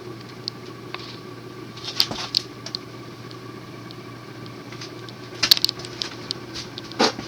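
Cast-iron spinner motor of a 1984 Union Ngok Kee Gulf Star ceiling fan running on high in reverse, with a steady hum. Scattered sharp clicks sound over it, the loudest about two seconds in, around five and a half seconds in, and near the end.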